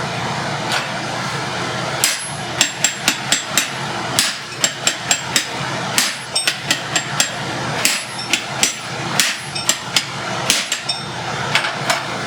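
Blacksmith's hammer blows on red-hot steel at the anvil, struck in quick runs from about two seconds in, several with a bright metallic ring, over a steady background noise. The blows are putting a dimple into a forged steel leaf to mark a screw hole.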